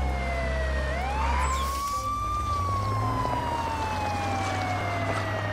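Police car siren wailing in a slow cycle: the pitch climbs for about a second and a half, then falls slowly for about three seconds. A steady low engine hum runs underneath.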